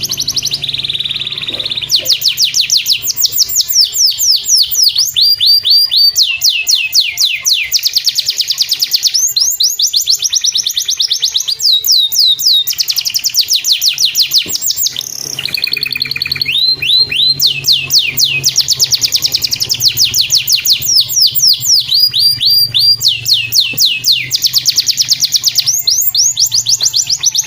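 Domestic canary singing a long song of fast rolling trills, each run a quick string of repeated high sweeping notes, the tempo and pitch changing from run to run, with a short lull about halfway. A steady low background of music runs underneath.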